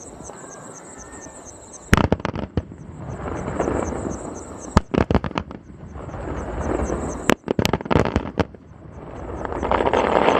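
Aerial fireworks bursting: a sharp bang about two seconds in, a quick run of bangs around five seconds and another near eight seconds, with swells of rushing, crackling noise between them and a louder swell near the end.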